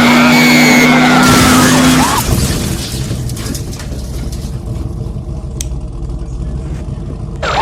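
Car-chase soundtrack: tyres squealing over a steady held tone for about two seconds, then a lower engine rumble, with the squealing coming back near the end.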